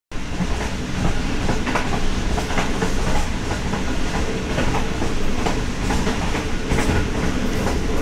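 Passenger train running at speed, heard from the rear guard's van through its open window: a steady rush of wheel and rail noise, with irregular sharp clicks as the wheels pass over rail joints.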